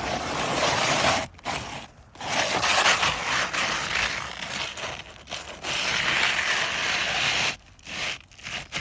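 Roof shingle scraping and tearing as it is pried and worked loose from the roof: long rasping scrapes with short pauses, then a few shorter scrapes near the end.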